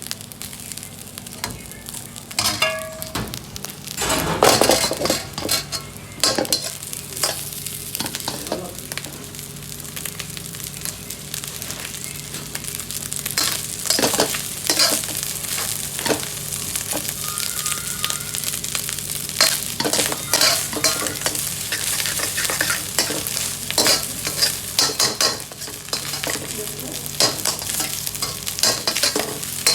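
Food sizzling and frying in a pan while it is stirred, with a spoon scraping and knocking against the metal many times, over a steady low hum.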